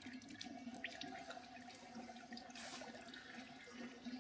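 Used engine oil pouring from the open drain plug hole into a drain pan, a faint steady stream with a steady low hum beneath it.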